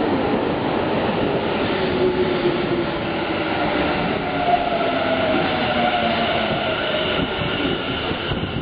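Tobu 50050 series electric train running through an underground station: steady wheel and running noise with a motor whine whose tones glide slowly in pitch.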